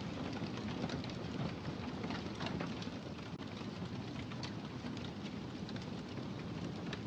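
Wood fire in a fireplace crackling: a steady low rumble of the flames with frequent small sharp pops and snaps scattered throughout.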